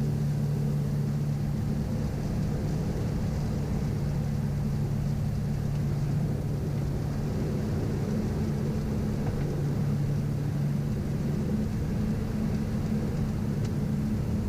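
Steady drone of the Piper Navajo Panther's twin piston engines and propellers heard inside the cockpit on the landing approach, an even low hum with no change in pitch.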